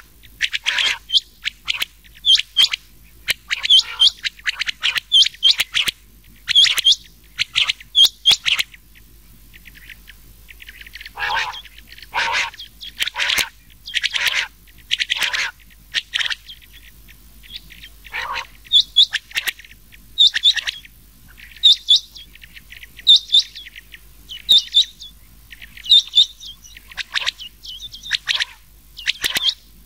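Rain quail calls mixed with another quail's calls, a recorded call track used as a hunting lure. It is short, sharp, high notes repeated in quick runs and clusters with short pauses between them, some notes dropping lower.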